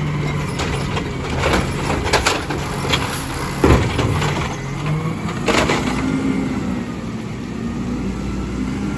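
Amrep garbage truck running at work, a steady diesel engine note broken by several loud clanks and bangs, with the engine note rising about six seconds in.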